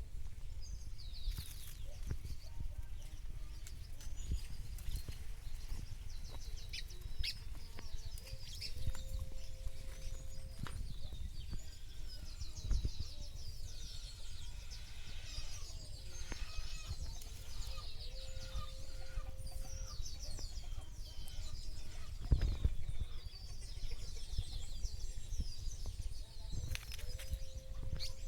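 Birds chirping and trilling in quick high runs throughout, with a drawn-out lower call recurring about every nine seconds, over a steady low rumble.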